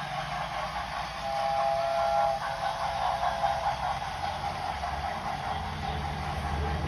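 Model steam train running along its track with a steady rumble, and a short steady whistle-like tone sounding for about a second, starting about a second in.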